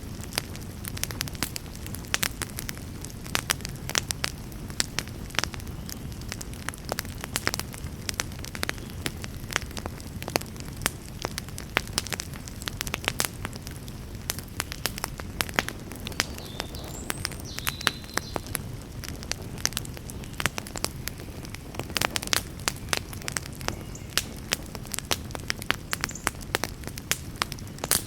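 Campfire burning, with frequent sharp crackles and pops over a steady low rush, and a few faint high chirps partway through.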